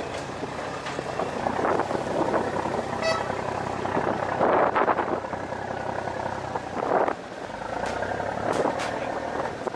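A ferry's engine idles with a steady low hum under several louder bursts of clatter and knocking from work on board. About three seconds in there is a short, high toot.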